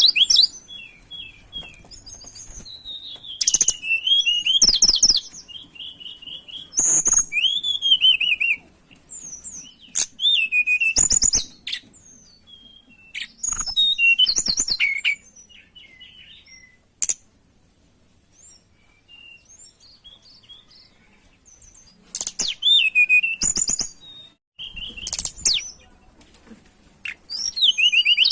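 Tledekan gunung songbird singing: short bursts of high, rapid chirping and warbling phrases, a second or two each, repeated with short pauses and a longer lull about two-thirds of the way through.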